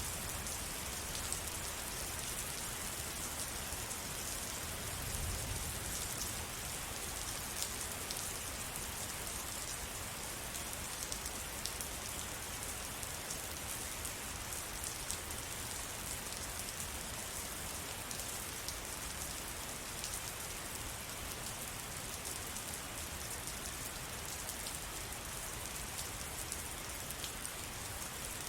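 Steady rain falling, a continuous hiss with many close individual drop hits, and a brief low rumble about five seconds in.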